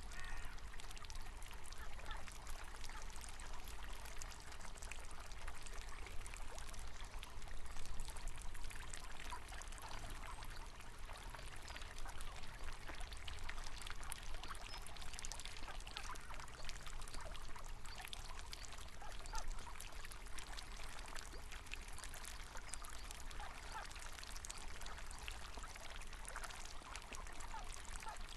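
River water running over stones, burbling and splashing steadily, with occasional duck calls.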